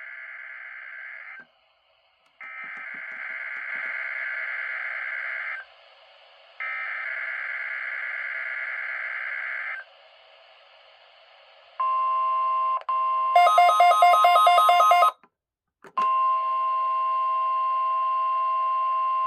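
NOAA Weather Radio alarm test signals: three buzzy data bursts of the SAME digital header, each about three seconds long, then the steady 1050 Hz warning alert tone. About halfway through, the alert tone is broken by a louder, rapidly pulsing beep, and then the steady tone resumes.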